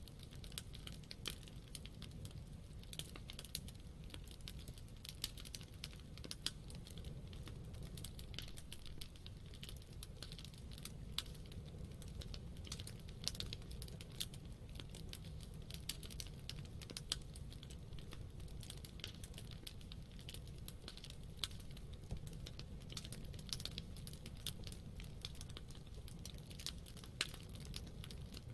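Wood campfire crackling: frequent, irregular sharp pops and snaps over a low, steady rumble.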